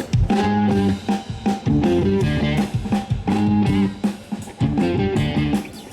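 Band playing a guitar riff over a drum kit, starting suddenly and breaking off briefly near the end.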